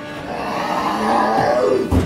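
A horror-soundtrack screeching swell that builds for about a second and a half, ending in a sharp bang near the end.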